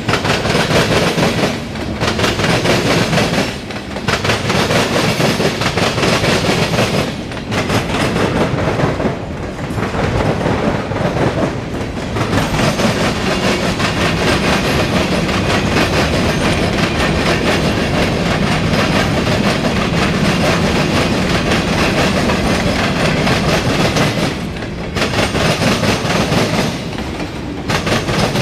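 Freight cars of a CSX freight train rolling past, wheels clattering over the rail joints. The noise is loud and steady, dipping briefly every few seconds.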